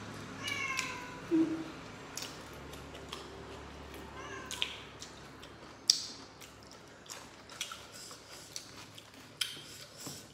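Eating sounds from people eating rice and meat by hand: wet chewing and sharp lip-smacking clicks. Two short, high cries fall in pitch, one about half a second in and one around four and a half seconds in.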